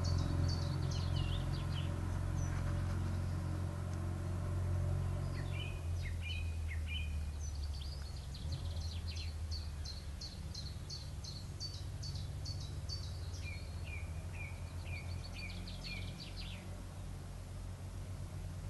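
Small birds singing: several quick runs of high, rapidly repeated chirps, with a lower-pitched run of notes in the second half. Under them a steady low rumble, loudest at first and easing off.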